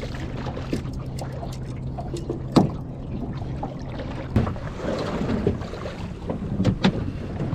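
A small boat's motor runs with a low, steady hum that stops a little past halfway, at a knock. Wind buffets the microphone, and a few sharp knocks come from the boat and fishing gear.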